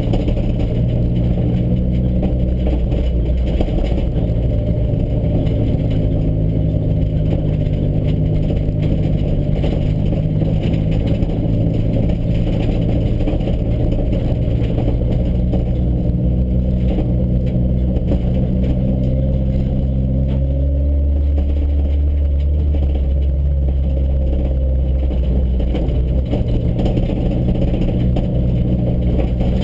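Car engine running at driving speed, heard from inside the cabin over tyre noise on a dirt road. The engine note changes through the drive, dropping lower for several seconds about two-thirds of the way through, then coming back.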